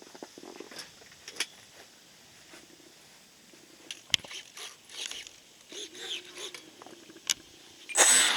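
Scattered light clicks and knocks of handling, then near the end a model plane's electric motor throttles up suddenly, loud with a high whine.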